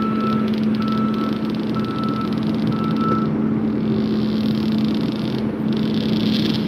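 Motor vehicle engine running steadily at idle, with a short electronic beep repeating about once a second for the first three seconds, like a reverse warning alarm. After the beeps stop, a hiss rises over the engine.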